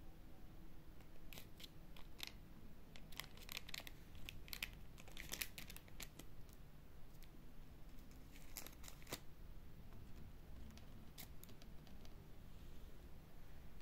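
Faint, irregular sharp clicks and short crinkly snips, in clusters, over low room hum.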